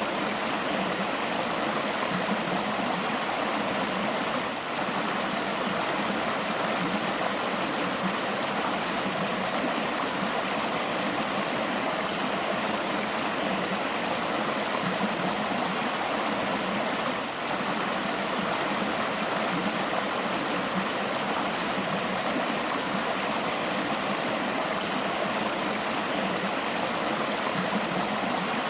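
River water flowing, a steady unbroken rush and babble, with two brief slight dips in level about 5 and 17 seconds in.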